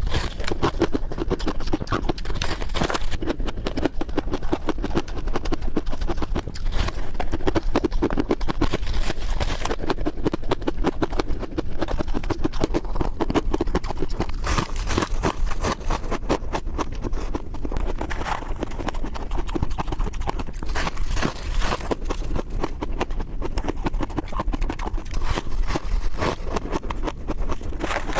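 Ice being bitten and chewed close to the microphone: a dense, continuous run of crisp crunches and cracks.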